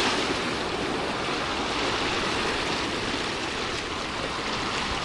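Sea surf washing up the beach: a steady rushing hiss of water and foam that slowly eases off.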